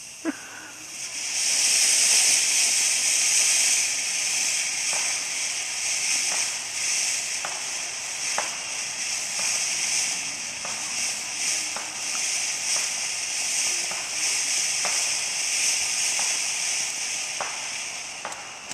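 Small consumer firework fountain spraying sparks: a steady high hiss that lasts about seventeen seconds, with scattered sharp crackles through it, tapering off near the end.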